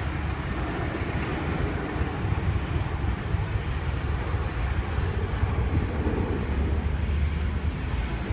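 Steady jet aircraft noise: a strong low rumble with hiss above it.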